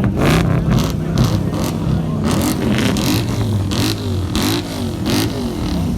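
A modified car's engine being revved in quick repeated blips, its pitch rising and falling about twice a second over a steady idle.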